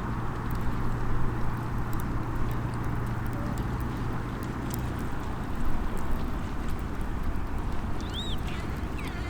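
Small wood campfire crackling, with scattered sharp pops, over a steady wash of seaside ambient noise. A low hum runs underneath and stops about five seconds in, and a short chirp sounds near the end.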